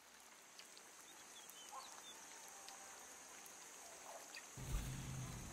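Faint outdoor ambience with a steady high hiss and a few short bird chirps; about four and a half seconds in, a low steady hum comes in.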